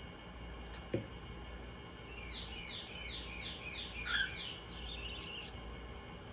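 Bird chicks chirping while being hand-fed: a run of about ten short, falling chirps, roughly three a second. A single sharp knock comes about a second in.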